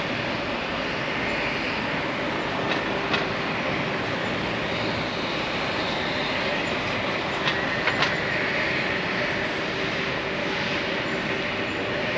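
Steady city background noise, like the hum of an urban street, with a few sharp clicks about three seconds and eight seconds in.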